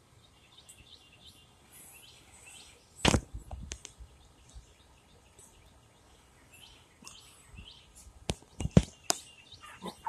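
Wild birds chirping in short, falling calls over a quiet outdoor hush, broken by a few sharp, loud knocks about three seconds in and again near the end.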